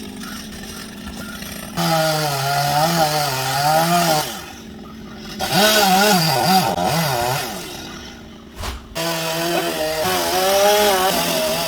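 Chainsaw running and cutting into a teak tree, its engine pitch wavering up and down under load. It comes in three loud spells, easing off briefly twice.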